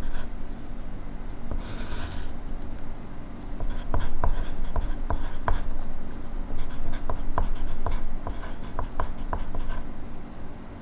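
Pencil writing on paper, scratching with many short sharp ticks. A brief papery rustle comes about two seconds in.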